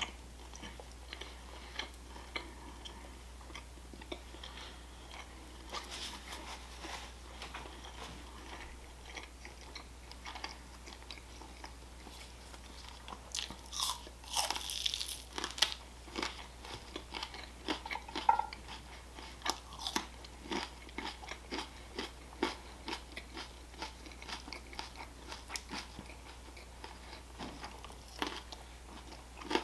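Close-up eating sounds: soft chewing of roast chicken and crisp crunching bites of raw green onion and cucumber, with a run of loud crunches about halfway through.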